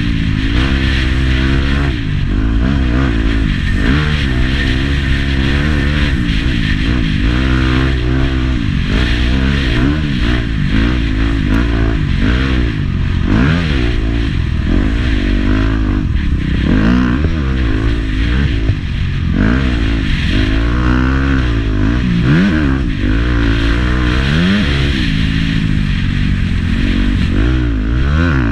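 Motocross bike engine ridden hard, its revs rising and falling about once a second as the rider throttles on and off and shifts gears.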